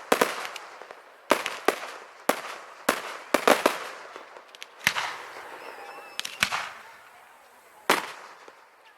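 Fireworks display: aerial shells bursting in a string of sharp bangs, some in quick pairs, each trailing off in a crackling, echoing tail. The bangs ease off near the end, with a final burst before a short lull.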